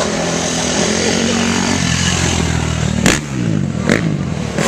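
KTM dirt bike engine running, its pitch falling steadily over the first three seconds, then two sharp thumps about three and four seconds in.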